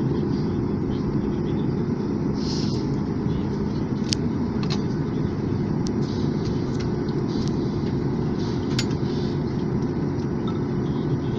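Steady cabin rumble of a Boeing 737 MAX 8 taxiing after landing, its CFM LEAP-1B engines at idle giving a low drone with a constant hum. A few sharp clicks come through the rumble.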